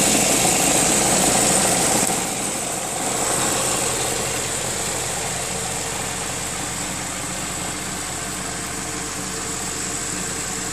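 Audi A4 allroad's 2.0 TFSI four-cylinder petrol engine idling, with a soft knocking rattle coming from the S-tronic gearbox that sounds a little like a diesel. The level drops slightly about two seconds in, then holds steady.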